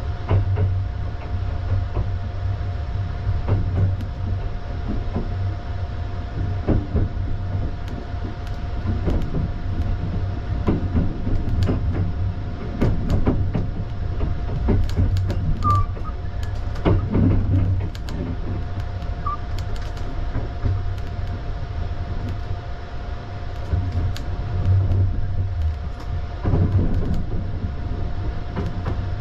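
Sunrise Izumo 285-series sleeper train running along the line, heard from inside the car: a steady low rumble of wheels on rail, with irregular clicks and clacks as the wheels pass over track joints, and a faint steady whine throughout.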